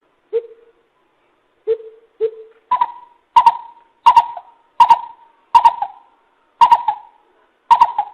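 Coucal calling: a few deep hoots, then a run of eight higher hoots at about one every 0.7 seconds.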